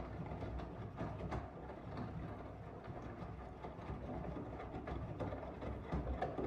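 Miele W1 Active front-loading washing machine running, its drum turning with a steady low rumble and many small irregular clicks and knocks.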